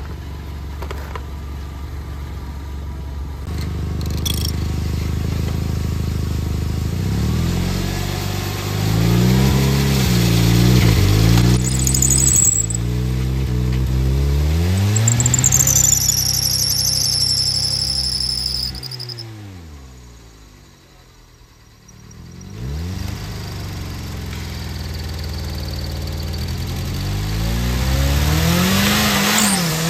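An old Ford Focus's engine revving up and down in gear, spinning its bare front hub and brake rotor in the air against 3D-printed brake pads. The revs rise and fall in long sweeps, drop away briefly about two-thirds of the way through, then climb again. High squeals from the rotor and pads come in twice near the middle.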